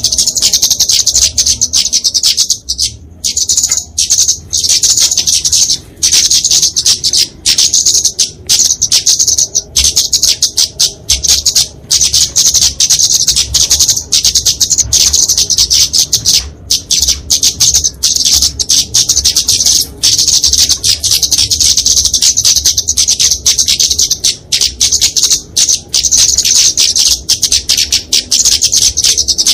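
Flowerpeckers (kemade, genus Dicaeum) giving fighting calls: a fast, nearly unbroken stream of high, sharp notes with only brief pauses.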